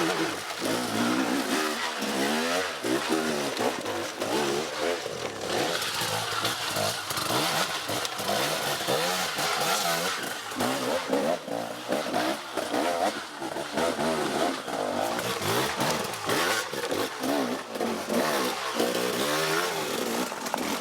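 Motorcycle engines revving up and down again and again, the pitch rising and falling every second or two.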